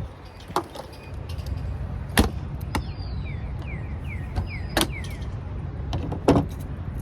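A songbird singing a quick run of short falling notes, starting about three seconds in, over a steady low rumble. Several sharp clicks and knocks, the loudest sounds, come at intervals.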